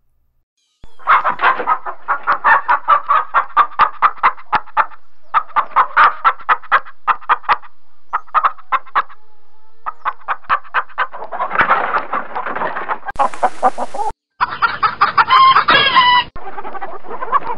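Chickens clucking in quick runs of short, sharp clucks, about five a second, stopping and restarting abruptly as separate recordings are cut together. Near the end a rooster crows.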